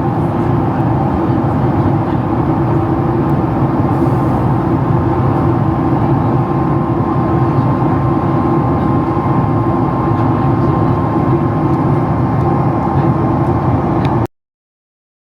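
Steady cabin noise inside a Boeing 737 MAX 8 airliner, the engine and airflow rumble of the plane, with a faint steady tone joining it partway through. It cuts off suddenly about a second before the end.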